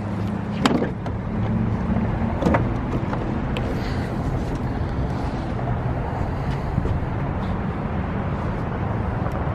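BMW 540i's 4.4-litre V8 idling steadily, with two sharp clacks, about a second and two and a half seconds in.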